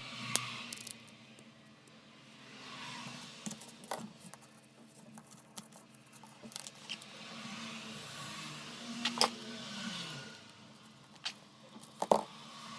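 Small metal parts being handled on a workbench: scattered clinks, knocks and scraping, with a few soft swells of hiss between them.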